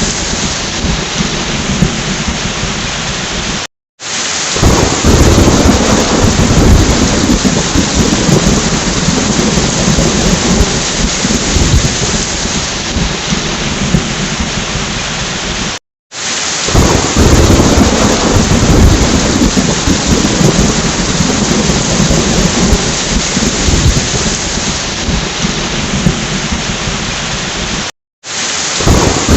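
Heavy rain with rolling thunder, a dense steady hiss with deep rumbles swelling underneath. The sound drops out to silence for a split second about every twelve seconds, and each time a stronger low rumble follows.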